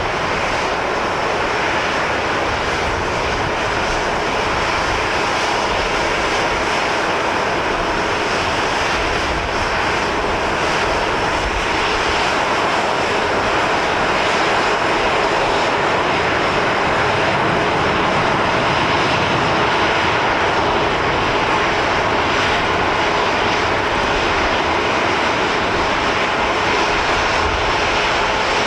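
Jet airliner landing, its engines giving a loud, steady rushing noise that swells a little over the first half and then holds.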